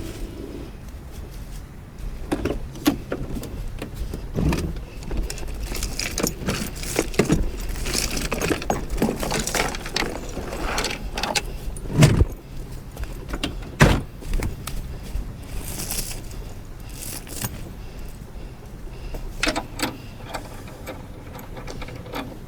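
Steel log chain clinking and rattling in irregular knocks as it is handled, over a low steady rumble.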